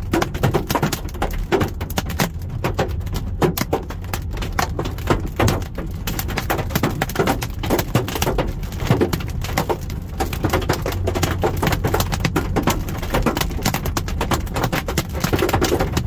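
Golf-ball-size hailstones hammering a car's roof and body: a dense, irregular barrage of hard knocks and bangs on the sheet metal, heavy enough to dent it.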